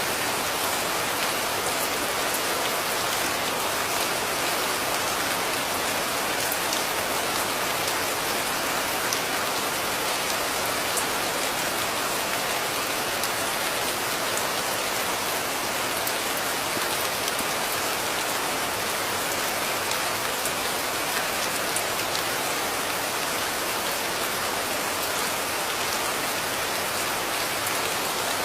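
Steady rain falling: an even hiss of rain with the ticks of single drops scattered through it.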